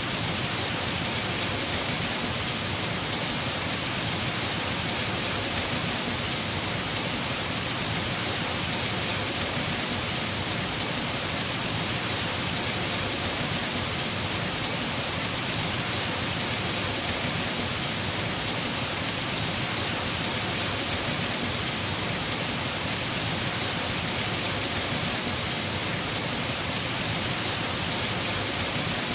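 Heavy rain falling on a house roof, a steady, even hiss of dense drops.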